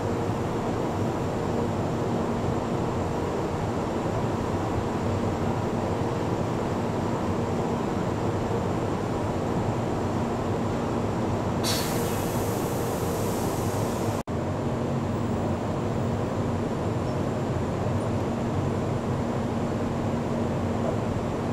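Steady hum and whir of a stationary Taiwan High Speed Rail 700T trainset at the platform. About twelve seconds in, a high hiss starts suddenly and cuts off about two and a half seconds later.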